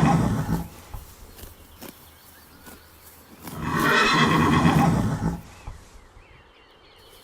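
Horse neighing: one whinny dies away in the first half second, and a second long whinny comes about three and a half seconds in. Faint hoof clops fall between the calls.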